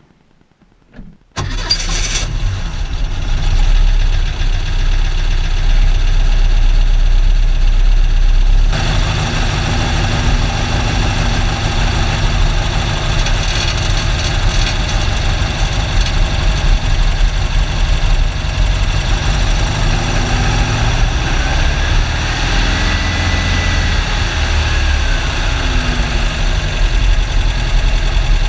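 A 1968cc air-cooled VW flat-four engine starts suddenly about a second in and runs steadily, a little louder for the first several seconds before settling to idle, heard close up from a GoPro in the engine compartment. The owner is chasing a squealing noise from the rear, which he traces to the engine's cooling fan rubbing.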